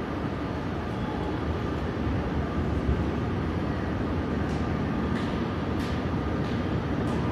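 521 series electric train running, a steady low rumble that slowly grows louder, with a few short sharp clicks in the second half.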